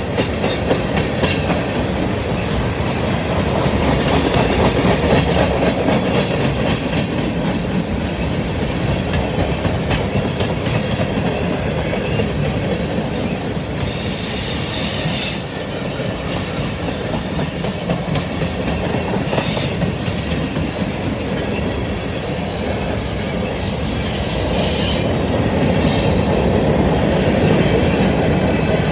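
Freight train cars rolling steadily past, with wheels clattering on the rails. A high, thin wheel squeal comes near the start and again for a couple of seconds around the middle.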